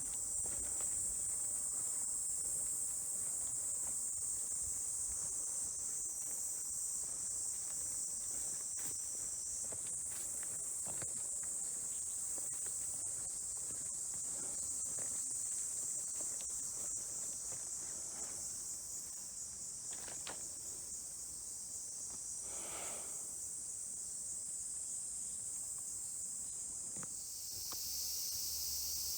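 A chorus of summer insects shrilling steadily and high-pitched, with scattered faint crackles and steps in the undergrowth beneath it.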